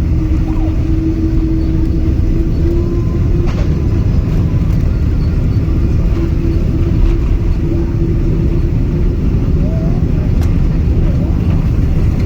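Boeing 777-200ER cabin during landing: a loud, steady low rumble of the engines and airflow, with a steady hum and a couple of faint clicks.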